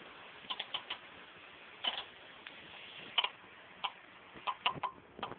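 Pet budgerigars making short, sharp clicking chirps, scattered irregularly in small groups.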